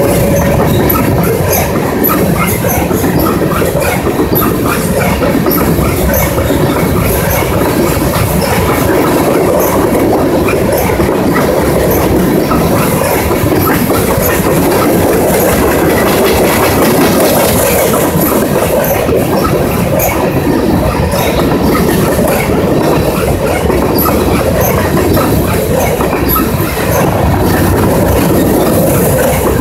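Freight train of covered grain hopper cars rolling steadily past close by: continuous rumble and clatter of steel wheels on the rails, with scattered high wheel squeaks.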